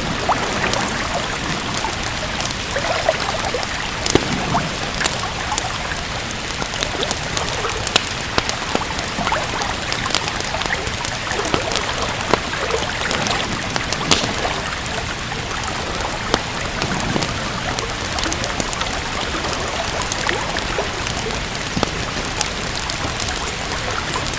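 Steady rain with frequent sharp, irregular crackles and pops from a wood fire in a fireplace.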